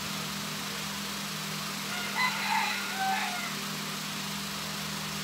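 A brief bird call about two seconds in, lasting around a second and a half and ending on a short falling note, over a steady low hum.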